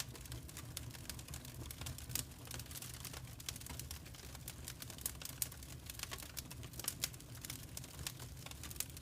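Wood fire crackling, with many irregular small pops and snaps over a low, steady rumble.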